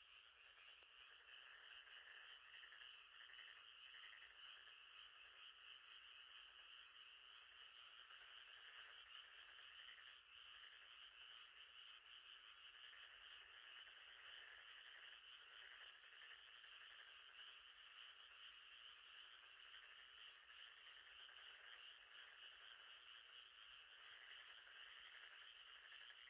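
Faint, steady chorus of frogs calling at night, a continuous high, finely pulsing trill.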